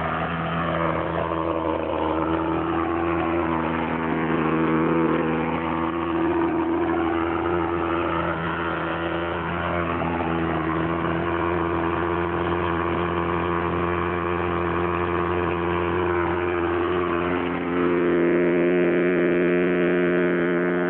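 Fumigation fogging machine running with a steady, even drone, cutting off near the end.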